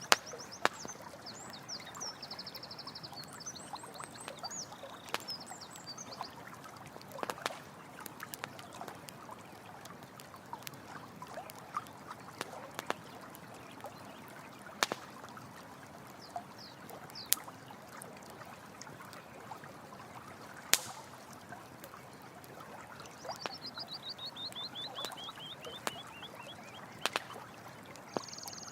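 Running stream water with a campfire crackling, its sharp pops scattered throughout. High chirping calls sound in the first few seconds, and a rapid trill falling in pitch comes near the end, from an animal.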